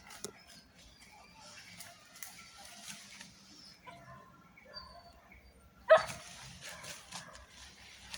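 A dog barks once, sharp and loud, about six seconds in, with fainter scattered sounds before it.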